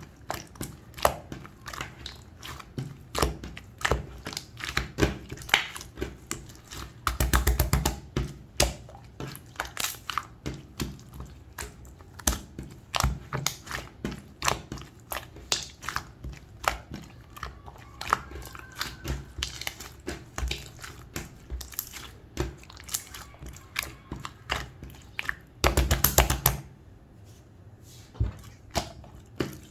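Clear slime being squeezed and pressed by hand, giving a steady run of sticky clicks and pops. There is a denser, second-long flurry of crackling about seven seconds in and another a few seconds before the end.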